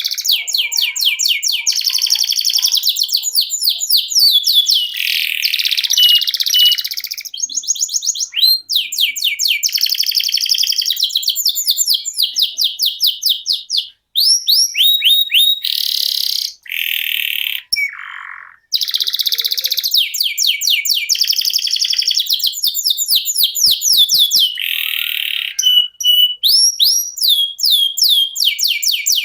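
Domestic canary singing a long rolling song: fast trills of rapidly repeated high notes that change pattern every second or two, with only a couple of brief breaks midway.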